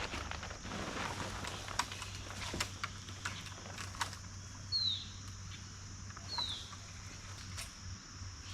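A bird gives two short downward-sliding calls about a second and a half apart, over a steady high-pitched hiss. Scattered clicks and rustles of handling come mostly in the first half.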